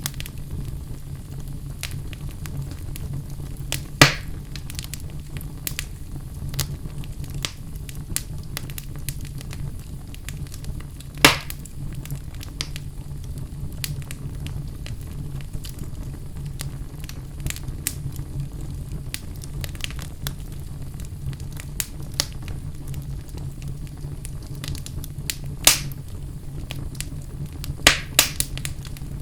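Wood fire crackling in a fireplace: a steady low rumble of flames under frequent small snaps. A few louder pops stand out, with two close together near the end.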